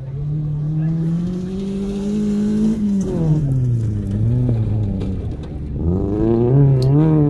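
Rally-prepared Maruti Zen's petrol engine revving hard as the car slides across the dirt field. Its pitch climbs for about three seconds, drops sharply, then climbs again near the end.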